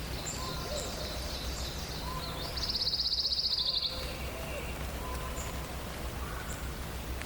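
Songbirds in a forest dawn chorus, with scattered short chirps and whistles. The loudest call is a single fast, dry trill of about ten notes a second that starts about two and a half seconds in and lasts just over a second. A steady low hum runs underneath.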